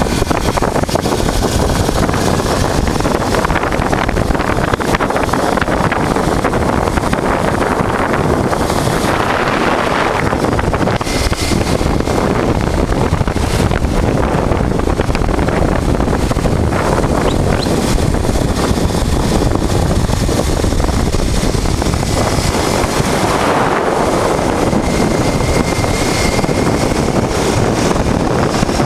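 Heavy wind rushing over the microphone of a moving motorcycle, over the steady running of a 1988 Honda Transalp's V-twin engine at road speed.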